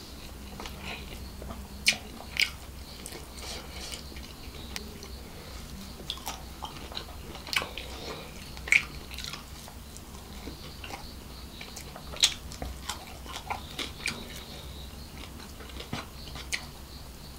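Close-miked chewing of fried rice, with wet mouth sounds and irregular sharper lip smacks and clicks. A low steady hum runs underneath.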